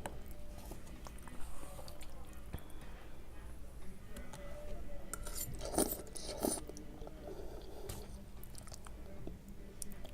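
A person chewing and eating spaghetti, with soft wet mouth sounds and small clicks, and a louder cluster of noisy bursts a little past halfway through.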